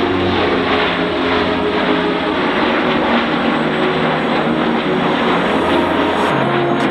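Canadair CT-114 Tutor jets of a formation flying overhead, their single turbojet engines making a steady, loud rushing noise.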